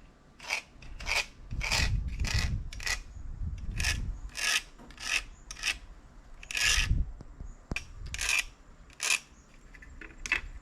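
A series of short, irregular rasping scrapes, about fourteen in ten seconds, each lasting a fraction of a second.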